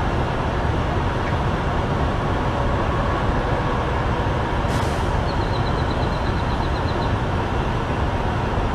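Steady low rumble of idling diesel trucks at a fuel island. A short hiss comes about five seconds in, followed by a quick run of faint ticks for about two seconds.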